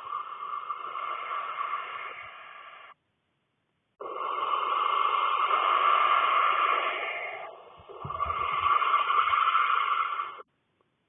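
Barn owlets hissing in their nest box: several chicks' rasping, snore-like begging calls overlapping into a steady hiss. The sound cuts off abruptly twice, and there is a low thump near the eight-second mark.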